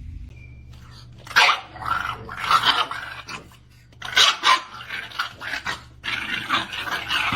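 A dog vocalizing in a series of short, irregular bursts. It starts about a second in, pauses briefly after the middle, then carries on.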